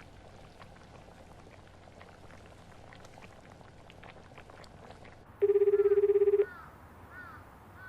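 Faint ambience, then about five and a half seconds in a one-second burst of a telephone ringback tone: a fluttering low beep heard by the caller while the other phone rings unanswered. A few faint chirps follow.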